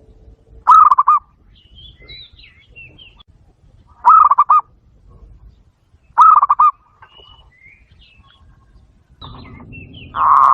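Zebra dove calling: four short, loud bursts of rapid staccato cooing, each a quick run of pulses, a few seconds apart. Faint high chirps of other small birds sound between them.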